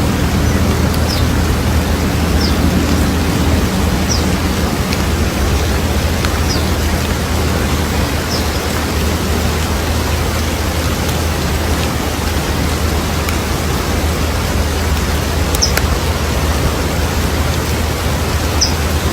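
A steady, loud rushing noise with a few faint, short, high bird chirps scattered through it.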